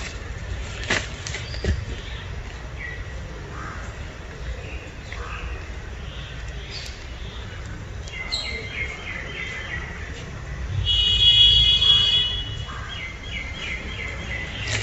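Birds calling: a rapid series of short chirps from about eight seconds in, one louder drawn-out call around eleven seconds, then more rapid chirps, over a low background rumble.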